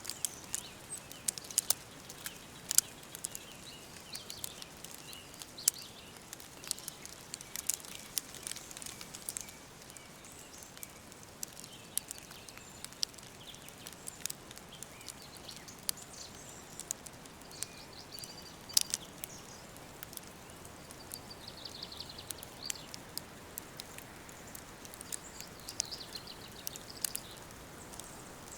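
Wood fire crackling, with irregular sharp pops over a steady hiss. Birds sing faintly at times, most clearly past the middle.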